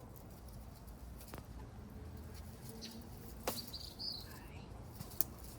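Small birds chirping in short, high calls, with one brief falling call, over a low steady background. Three sharp clicks or taps stand out, the loudest about three and a half seconds in and another near the end.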